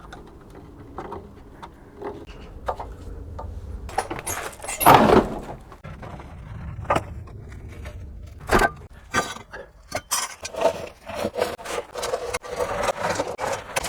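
Hand tools knocking, clinking and scraping on metal while a rusted car exhaust system is being unbolted. There is one louder scrape about five seconds in, and a quick run of clicks and clinks near the end.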